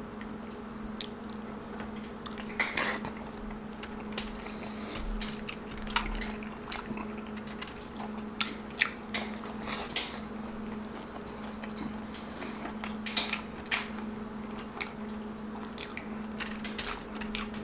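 Close-up eating sounds: chewing tender stewed beef, with irregular wet smacks and clicks of mouth and fingers, over a steady low hum.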